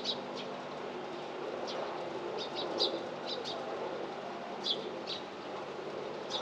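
Small birds chirping in short, scattered calls, several in quick succession around the middle, over a steady low background rumble.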